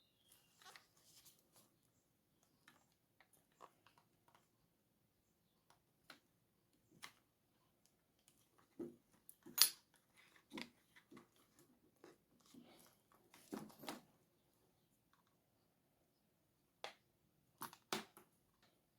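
Scattered light clicks and taps of small parts and a tool being handled while an RC truck's front suspension is taken apart, with one sharper click about ten seconds in.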